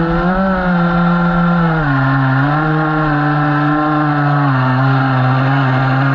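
A model boat's small engine running steadily, its pitch dropping about two seconds in, rising again shortly after, and dropping once more near the end as the throttle changes.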